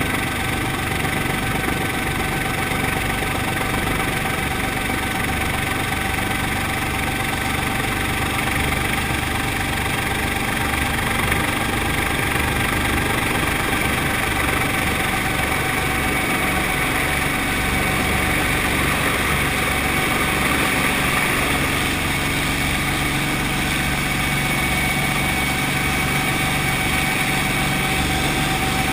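Brantly B-2B helicopter's Lycoming piston engine and rotor running steadily, a constant whine over a low throb.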